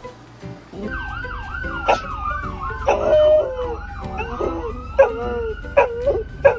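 An emergency-vehicle siren in a fast warbling yelp, with a dog barking in short sharp barks over it from about two seconds in.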